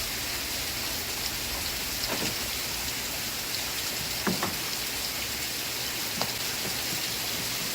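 Steady rain falling, an even hiss of drops, with a few faint brief sounds standing out now and then.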